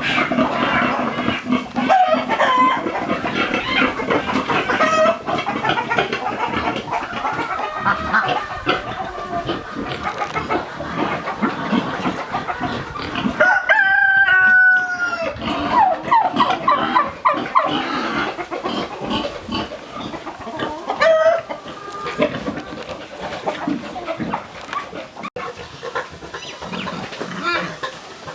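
A flock of chickens clucking and calling over one another, with a rooster crowing once about halfway through.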